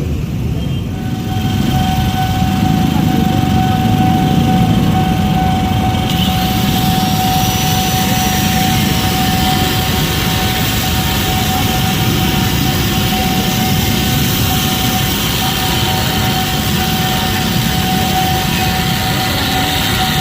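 Steady vehicle noise with a continuous high whine that starts about a second in, and a hissing rush that swells in around six seconds in.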